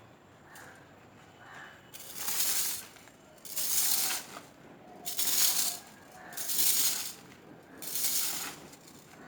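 Leaf clean-up rake dragged through dry fallen leaves on grass, five rustling sweeps about one and a half seconds apart.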